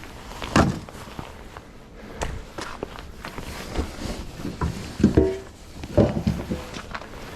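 Split firewood pieces knocking and clunking as they are handled and set down, a few knocks with a brief wooden ring.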